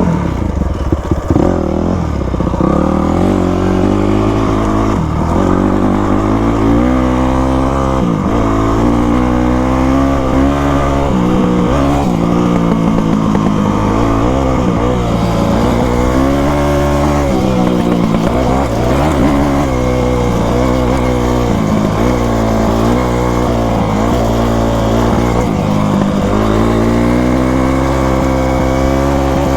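Yamaha YZ250 two-stroke single-cylinder dirt bike engine being ridden hard, its pitch rising and falling again and again every second or two as the throttle is opened and shut.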